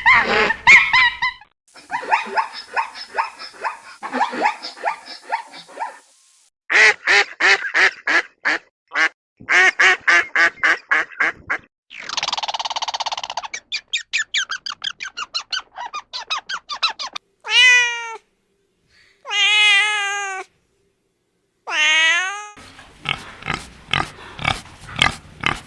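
A string of different animal calls cut together: rapid trains of short squeaky calls, then three long drawn-out calls that wobble in pitch, followed by more quick squeaky calls.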